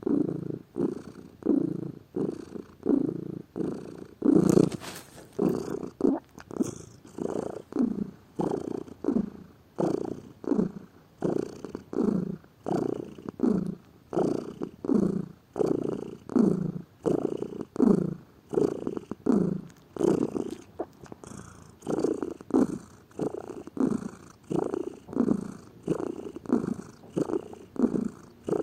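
Domestic cat purring close to the microphone, in a steady rhythm of low pulses about one a second, each breath in and out making a pulse. A brief louder sound comes about four and a half seconds in.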